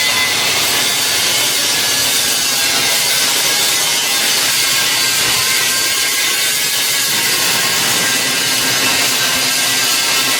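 Power tool running steadily at shipbuilding work: a harsh, continuous hiss with no break.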